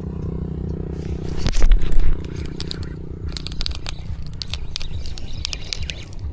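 A small motor runs with a steady low hum. A heavy knock comes about a second and a half in, then a quick run of clicks and scrapes of gear being handled.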